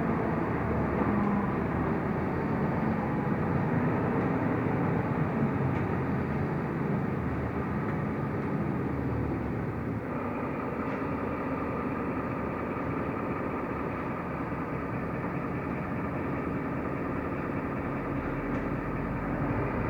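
Mercedes-Benz O345 Conecto LF city bus heard from inside the cabin while driving: steady engine and road noise. It eases slightly about halfway through, and a deeper rumble comes in near the end.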